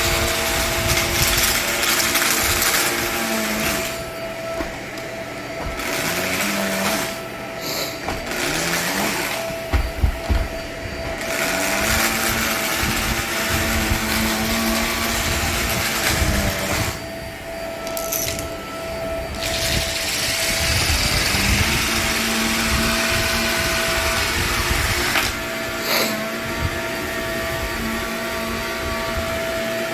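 Vacuum cleaner running over old, dirty nylon carpet, a steady motor hum under a crunchy hiss of grit being sucked up. The hiss drops away twice for a couple of seconds each while the motor keeps running, and there are a few low knocks.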